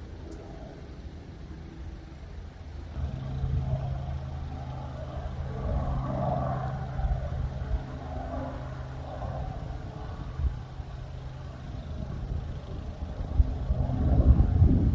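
A vehicle engine's steady hum, growing louder about three seconds in and holding. Low wind gusts buffet the microphone near the end.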